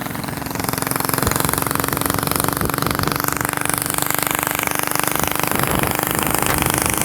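Straight-piped 3.5 hp single-cylinder engine of a vintage mini bike running at a steady speed, its exhaust a rapid, even train of pulses.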